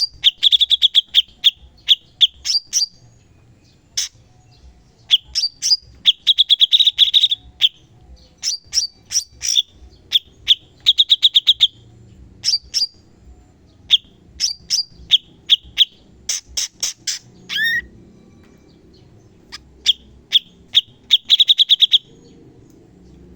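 Cucak cungkok songbird singing loud, rapid bursts of sharp, clicky notes in short rattling phrases separated by brief pauses: the fast 'tembakan' style prized in song training. A short slurred whistle comes about three-quarters of the way in, just before a brief silence.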